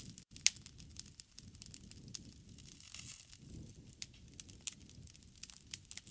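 Wood fire crackling: irregular sharp pops and snaps over a low, uneven rumble of the flames.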